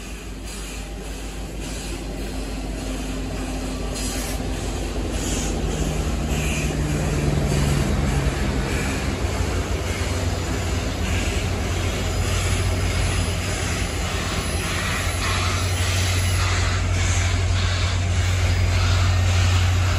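A train passing close by: tenders and cars rolling past with wheels clicking over rail joints, getting louder over the first several seconds. From about eight seconds in, a steady low drone is added, from the mid-train diesel locomotive, Union Pacific EMD SD70ACe No. 1983, as it goes by.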